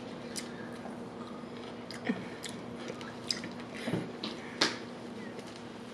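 A person chewing a mouthful of sandwich, with a handful of short sharp wet mouth clicks scattered through, the sharpest one about three quarters of the way in.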